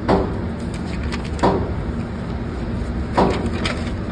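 Three gunshots about a second and a half apart, each followed by a short echo, over steady background noise.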